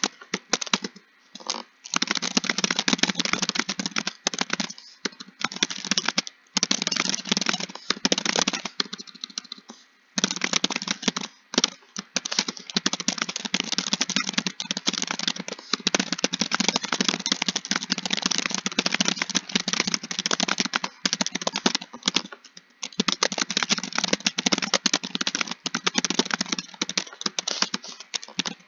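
Fast, continuous typing on a computer keyboard: a dense run of key clicks with a few short pauses, about a second in, around nine seconds in and around twenty-two seconds in.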